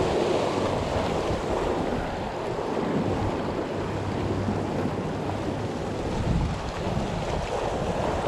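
Sea waves washing against coastal rocks, a steady rushing noise, with wind buffeting the microphone.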